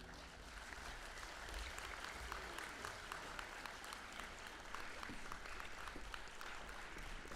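Audience applauding: many hands clapping steadily, fairly faint.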